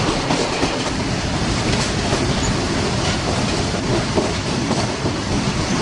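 Train running along the track: a steady loud rumble and rattle, with the wheels knocking over rail joints now and then.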